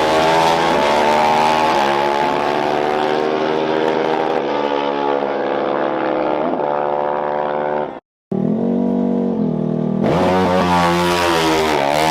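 Dirt bike engines running hard, their pitch rising and falling as they rev. The sound cuts out for a moment a little past halfway, then picks up again.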